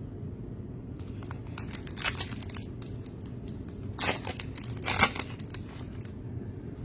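Trading-card packs and cards being handled: crinkling and rustling in a string of short bursts, loudest about four and five seconds in, over a low room hum.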